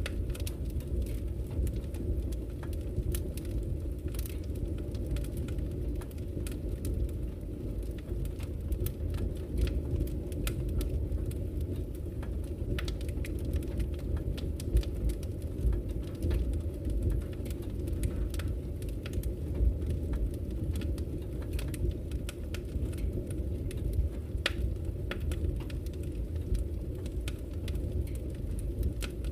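Wood fire burning in a fireplace: a steady low rumble of flames with frequent small crackles and pops, a few of them sharper.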